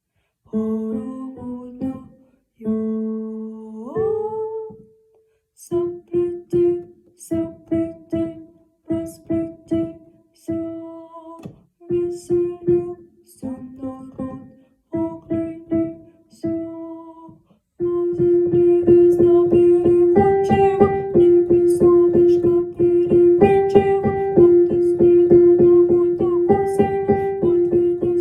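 Music on a plucked string instrument: short picked notes in separate phrases with pauses, then from about 18 s in a fuller, continuous passage of sustained notes.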